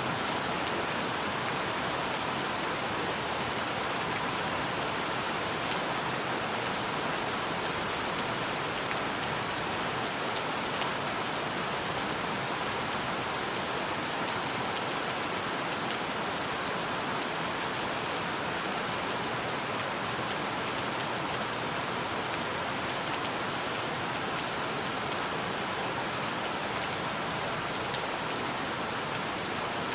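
Steady rainfall: an even hiss of rain with faint, scattered drop ticks, unchanging throughout.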